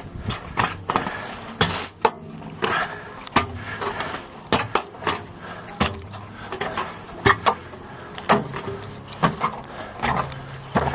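A hiker's footsteps on a snowy mountain trail: irregular sharp steps, roughly one or two a second.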